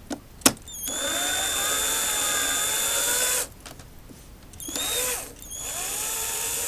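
Cordless drill-driver spinning screws out of the electric unicycle's casing in three runs, a long one, a short one and a medium one, the motor whine rising in pitch as each starts. Two sharp clicks come just before the first run.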